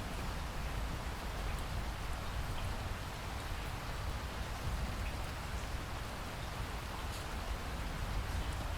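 Steady rainfall, a continuous hiss with a low rumble underneath and occasional faint drop ticks.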